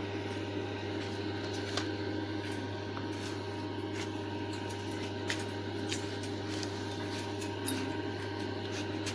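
A steady low hum with a few faint higher tones, and scattered light clicks and taps.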